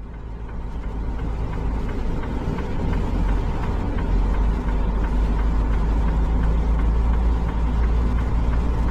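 Steady engine drone and road noise of a semi-truck driving along, heard from inside the cab, fading in over about the first second.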